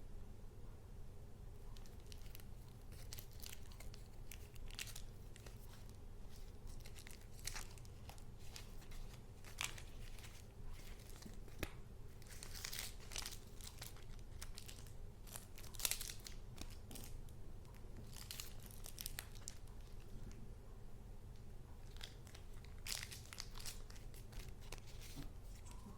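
Sheets of paper and paper goods being handled: irregular rustling with many short swishes and small ticks, over a faint steady low hum.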